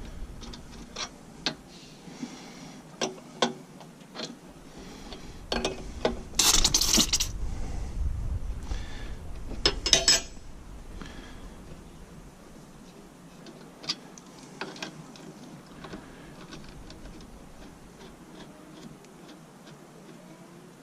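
Wrench and steel hydraulic fittings clicking and clinking as two hydraulic hose lines are unscrewed and swapped over, with a short, louder noisy burst about six seconds in and another near ten seconds, then only a few faint ticks.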